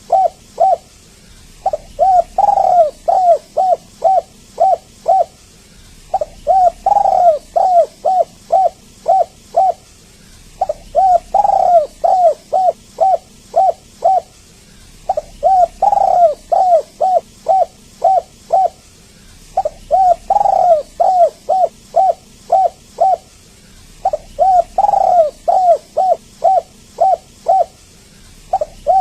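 Spotted dove cooing in repeated phrases about every four and a half seconds. Each phrase is one longer, arched coo followed by a quick run of five or six short coos.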